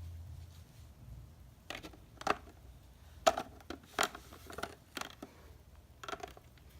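Macaw tapping its beak against a mirror: a dozen or so sharp, irregular taps and clicks beginning about two seconds in, the loudest near the middle.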